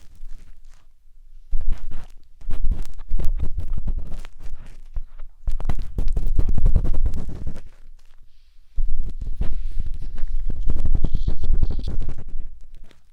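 A matchstick scraping and rubbing inside the ear of a 3Dio binaural microphone: close crackly scratching with low rumbling thuds, in several passes broken by short pauses.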